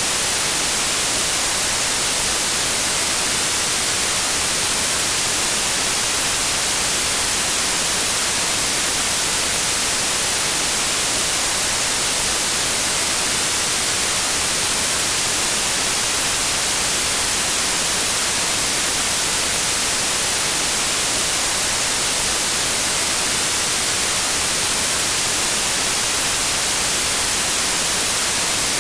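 Steady synthetic white noise: an even, unchanging hiss, brightest in the treble.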